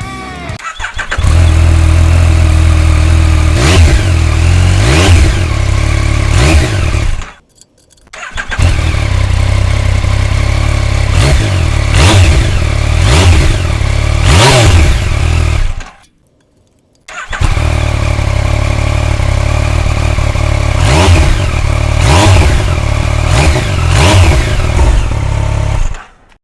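Yamaha Tracer 900GT's inline three-cylinder engine idling through its exhaust, with repeated short throttle blips that rise and fall in pitch. It comes in three takes separated by two brief cut-outs.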